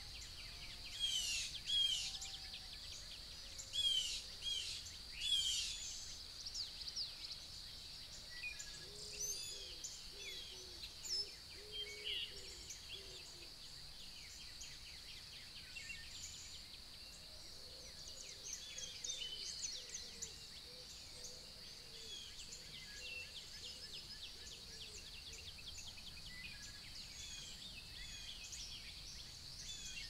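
Wild birds singing and calling in a mixed chorus, loudest in the first few seconds with quick repeated down-sweeping calls, then softer scattered chirps and trills. A steady high hiss runs underneath, with lower calls in the middle.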